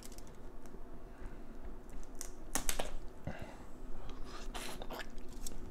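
A Dungeness crab's shell being broken apart: a few sharp cracks and crackles, grouped about two seconds in and again near the end.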